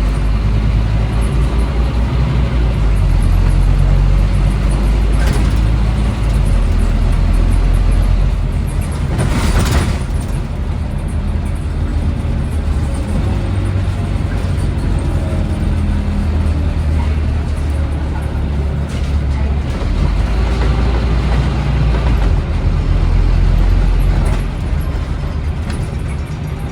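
Scania N270UD OmniCity double-decker bus engine running under load, its low drone rising and dropping back a few times as it pulls and eases off, with a brief hiss about nine and a half seconds in.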